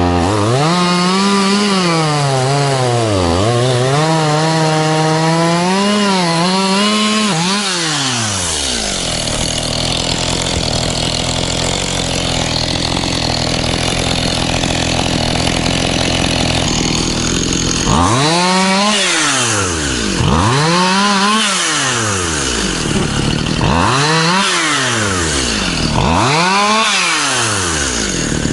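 Stihl MS211C two-stroke chainsaw cutting at full throttle, its pitch dipping and recovering as the chain bites into wood. About eight seconds in it drops to a steady idle, and from about eighteen seconds it is revved up and let back down again and again, every two or three seconds.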